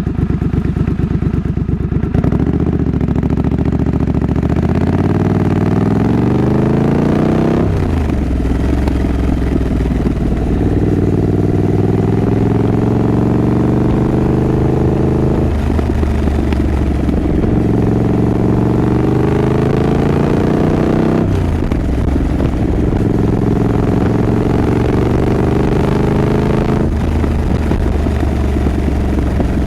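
2024 Triumph Scrambler 900's parallel-twin engine pulling through the gears: the engine note climbs steadily, then drops back at each of four upshifts before climbing again.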